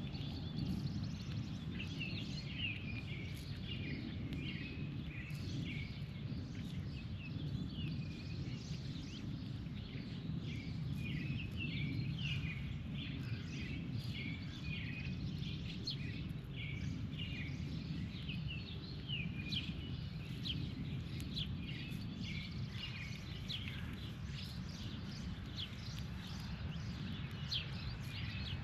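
Several birds chirping over and over in quick, short notes, over a steady low rumble.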